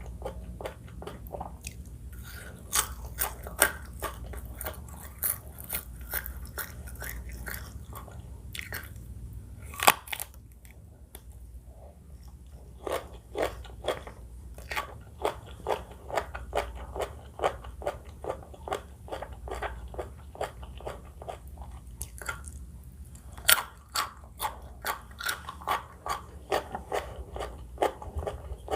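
Close-miked crunchy chewing and biting of a mouthful of crispy food, a rapid run of crackles with a couple of louder snaps and a brief lull partway through.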